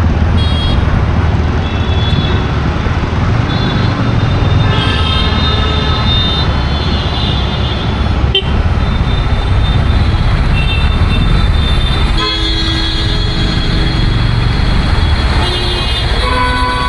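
Busy road traffic: a steady rumble of engines and tyres with frequent short horn toots from several vehicles, some overlapping.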